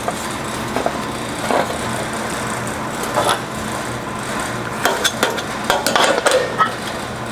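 Sheet-metal fender panel being handled and set onto a steel wire form buck: scattered light metallic knocks and clatters, busiest from about five seconds in, over a steady shop hum.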